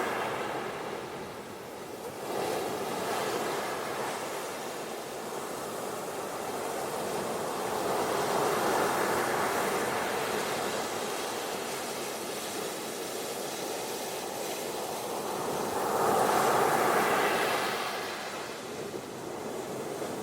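Ocean surf washing onto a beach in slow swells, each rising and easing over a few seconds, with the loudest wave near the end.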